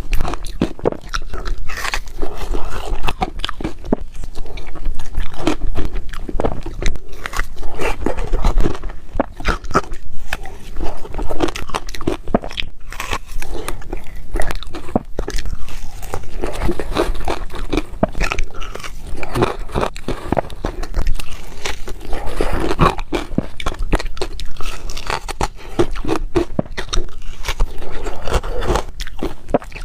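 Ice being bitten and chewed: a continuous, uneven run of loud crunches and cracks.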